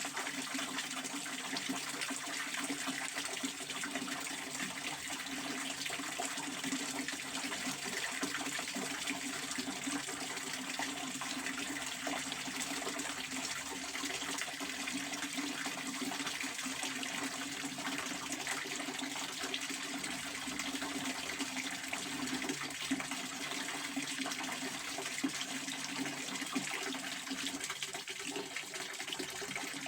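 A pond water fountain splashing steadily, its spray falling back onto the water in an even rush.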